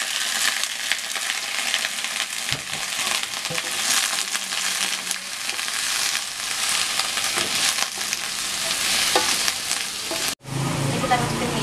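Vegetables sizzling in hot oil in a pan as they are stir-fried, with short scraping clicks from the stirring utensil. The sizzle cuts off suddenly near the end, replaced by a different background with a low hum.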